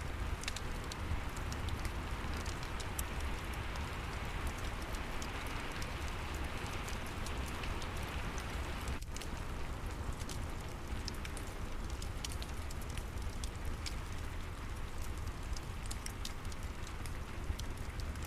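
Steady rain with a crackling fireplace, scattered sharp pops and snaps over a continuous hiss and low rumble. The sound briefly dips about halfway through.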